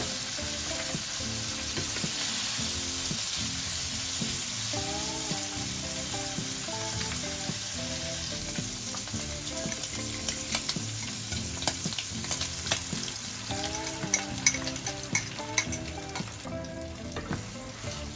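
Shrimp frying in oil in a non-stick pan: a steady sizzle that grows fainter toward the end, with a wooden spatula stirring in the pan near the end.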